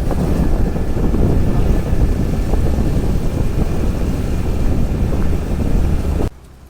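Wind rushing over the microphone and road noise from a moving TVS Jupiter scooter, a steady loud rumble that cuts off suddenly a little after six seconds in.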